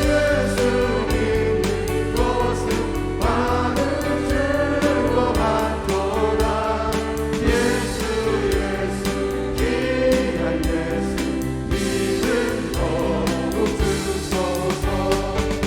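Church praise team singing a worship song in chorus over instrumental accompaniment with a steady beat.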